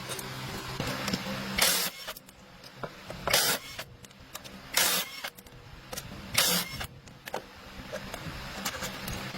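A steady machine hum that drops away about two seconds in and comes back near the end. Over it come four short, loud hissing bursts, about a second and a half apart.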